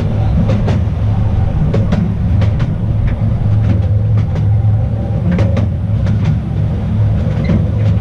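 The small narrow-gauge Train d'Artouste running along its track: a steady low rumble from the running gear, with scattered clicks and knocks from wheels on the rails.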